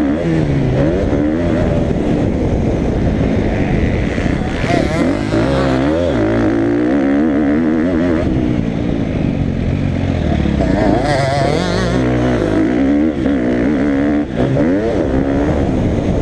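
Motocross dirt bike engine ridden hard, its pitch repeatedly rising and falling every second or two as the throttle is opened and shut.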